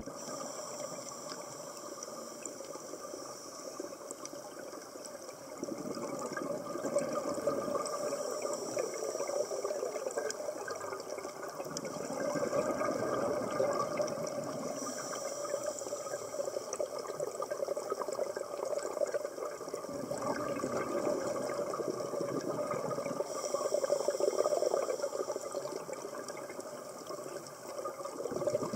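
Underwater sound of a scuba diver's exhaled bubbles gurgling out of the regulator in repeated surges a few seconds long, over a steady underwater hiss.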